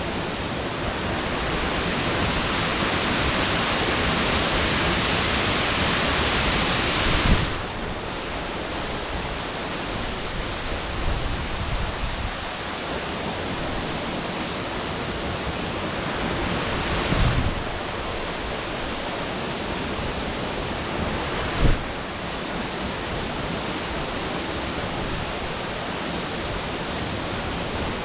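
Rushing water of Tonosumi Falls, a 15 m waterfall, a steady hiss at all pitches. It swells louder and brighter for the first seven seconds, then drops suddenly, with two brief swells later on.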